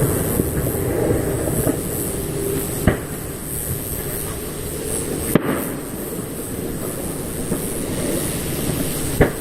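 Fireworks display: a continuous rumble of aerial shells, with three sharp bangs standing out, about three, five and a half and nine seconds in.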